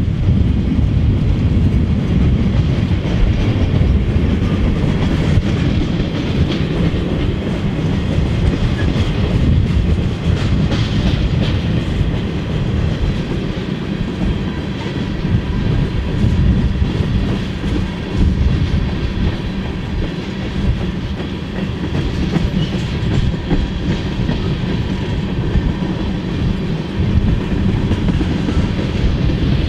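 Freight train cars of boxcars and tank cars rolling past at trackside: a steady rumble of steel wheels on rail, with rapid clicking as the wheels pass over the rail joints.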